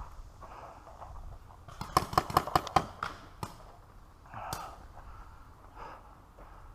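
A paintball marker firing a quick string of about six sharp shots, followed by a single shot about a second later.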